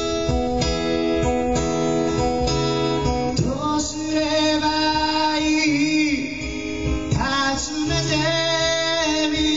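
Acoustic guitar strummed in a live song; a singing voice comes in over it about three and a half seconds in.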